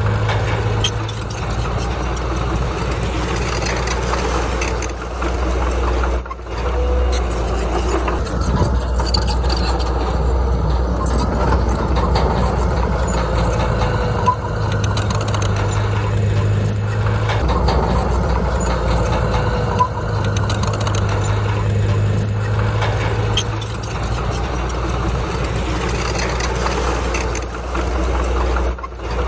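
Heavy diesel earthmoving machine's engine running under load, its engine speed rising and falling several times as it works.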